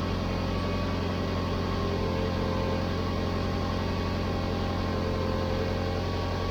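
Car engine idling steadily, run to bring the exhaust up to heat so the freshly applied exhaust assembly paste at the muffler joint sets hard.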